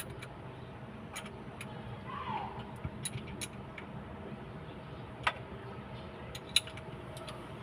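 Scattered sharp metallic clicks and clinks of hand tools and parts being handled on a diesel engine during a top overhaul, two of them louder about five and six and a half seconds in, over a steady low hum.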